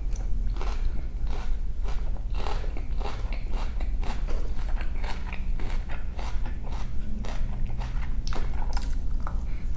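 Close-miked chewing of a mouthful of salad with crisp lettuce: a continuous run of irregular crunches, several a second.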